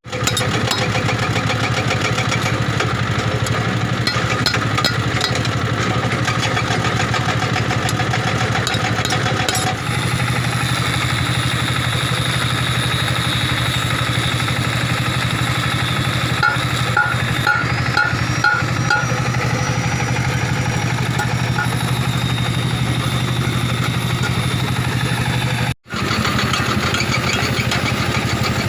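Engine running steadily at idle, a continuous low hum, with a run of about five short beeps near the middle.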